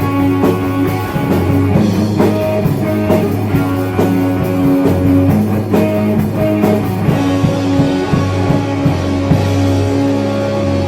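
Heavy metal band playing: a repeating electric guitar and bass riff over a steady drum kit beat, with no singing.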